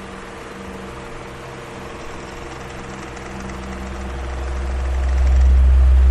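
Electric fan running, a steady motor hum over the rush of air. Its low rumble stays faint for the first few seconds, then swells back up about five seconds in.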